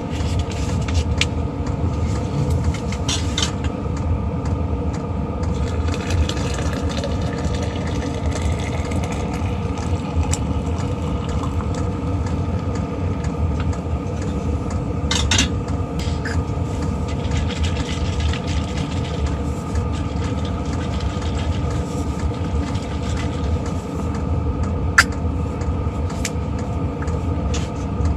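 VEVOR all-in-one diesel heater running steadily: a low combustion rumble under a steady fan hum. A few light clicks or taps come over it, the sharpest one near the end.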